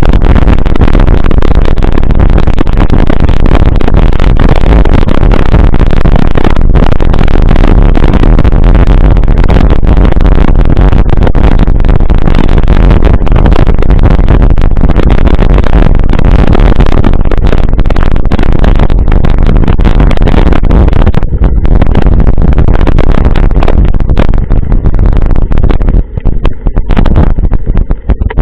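Loud, steady rushing of wind and road noise on the microphone while travelling, heaviest in the low end, turning choppy near the end.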